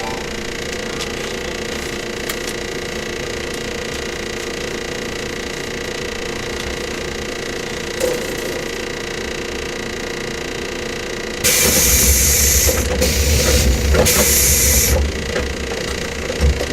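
Cabin running sound of a JR 115 series electric multiple unit motor car cruising, with a steady hum from its motors and gears. About eleven seconds in, a loud rushing roar with heavy rumble sets in suddenly and lasts about three and a half seconds, dipping twice.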